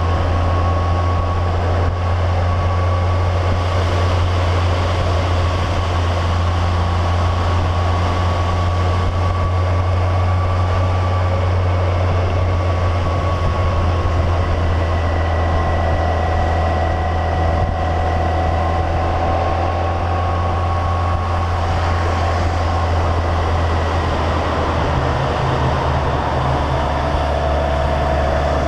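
Yamaha FJR1300 motorcycle under way at steady speed in the rain: the inline-four engine's steady low drone under a haze of wind and wet-road noise, with faint whining tones that drift slowly in pitch. The drone shifts slightly in pitch a few seconds before the end.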